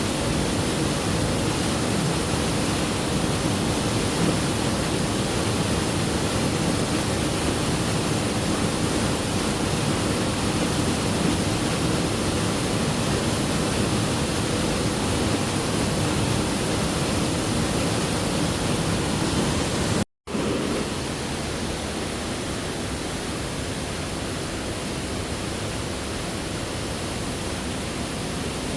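Waterfall rushing steadily. It cuts out for an instant about twenty seconds in and comes back slightly quieter.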